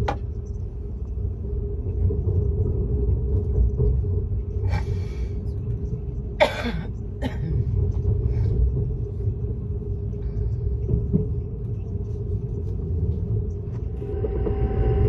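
ICE high-speed train running at speed, heard from inside the carriage as a steady low rumble with a constant hum. Two brief sharp noises come about five and six and a half seconds in, and a steady pitched tone joins near the end.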